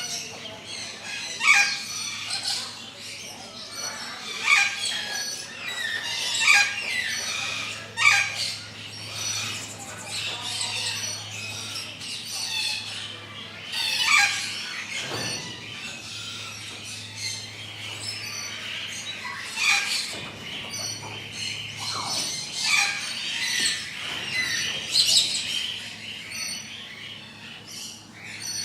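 Birds calling: many short chirps and squawks every second or two, with a few longer sliding calls, over a steady low hum.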